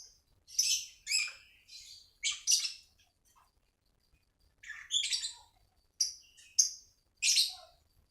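A songbird singing: short, high-pitched chirps and trills in quick bursts, with a pause of about a second and a half midway.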